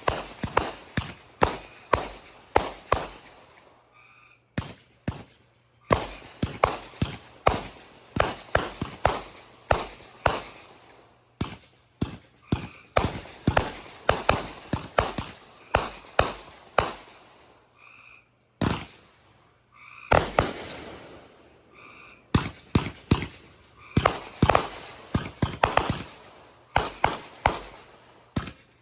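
Consumer fireworks going off in rapid volleys of sharp bangs and crackles, each bang trailing off in a short echo, with brief lulls between the volleys.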